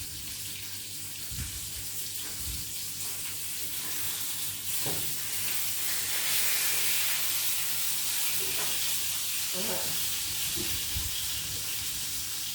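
Breaded chicken fillets frying in a pan, sizzling steadily, the sizzle swelling a little midway, with a few soft knocks.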